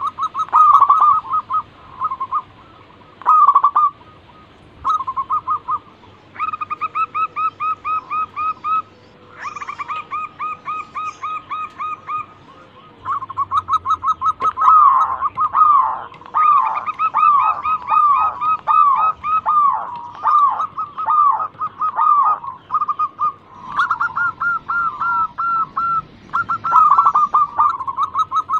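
Local zebra doves (perkutut) singing: rapid trains of short, evenly repeated cooing notes broken by brief pauses, with several birds' phrases overlapping in the middle.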